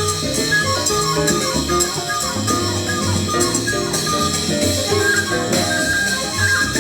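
Latin jazz ensemble playing live, with repeated bass notes underneath and a melody line moving above.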